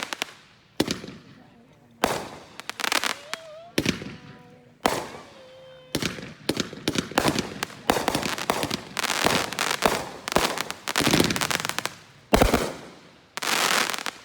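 Consumer firework barrage cake firing: single sharp bangs about a second apart, then from about six seconds in a dense run of rapid bangs and crackling, closing with a strong bang and a hissing stretch near the end.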